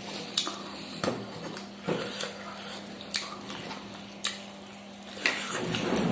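Close-up mukbang eating sounds: mouth smacking and chewing on mutton curry, with sharp wet clicks about once a second over a low steady hum. A denser stretch of chewing comes near the end.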